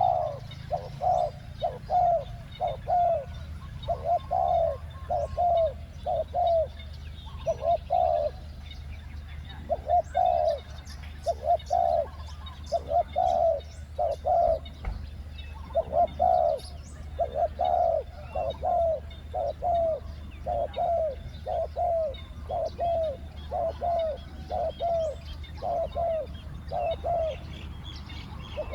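Spotted doves cooing: short low coos in runs of two to four, repeated steadily, with small birds chirping faintly in the background.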